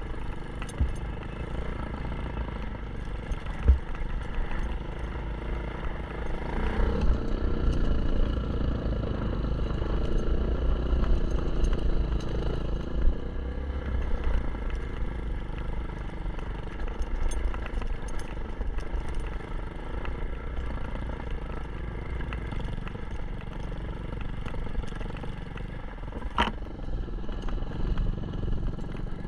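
Kawasaki KLX 150 dirt bike's single-cylinder engine running under way, revving up about seven seconds in, holding for several seconds, then easing back to a lower, steadier run. There is a sharp click near the end.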